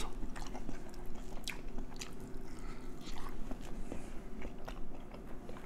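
Close-up chewing and biting of KFC fried chicken, with irregular sharp mouth clicks.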